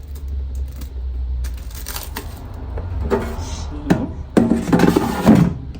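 Knocks and clatter of a new plastic air fryer being handled, its parts and basket set and pushed into place, in a dense run from about halfway on over a low steady hum.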